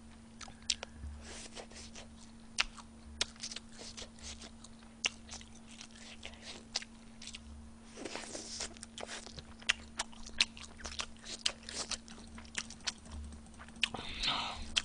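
Close-miked chewing of food, a seaweed rice ball and tteokbokki, with many small wet mouth clicks and smacks, a louder stretch about eight seconds in as a new bite goes in. A steady low hum runs underneath.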